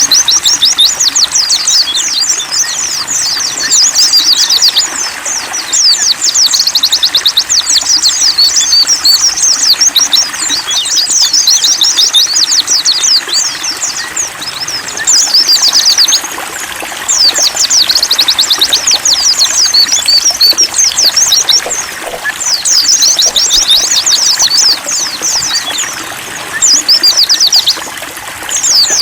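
White-eyes (pleci) singing fast, high twittering songs in long runs broken by short pauses, over a steady trickle of running water.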